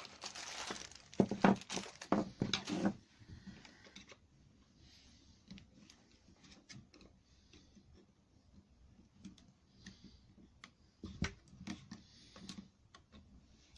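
Scattered clicks and knocks of small parts and tools being handled on a workbench, a busier cluster in the first three seconds, then only occasional faint clicks.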